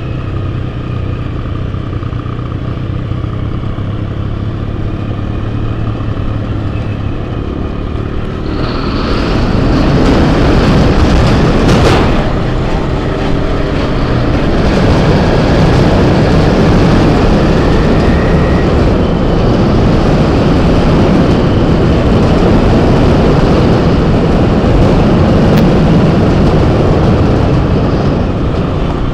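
Enduro motorcycle engine running while riding on a trail; it gets louder and rougher about nine seconds in and stays up.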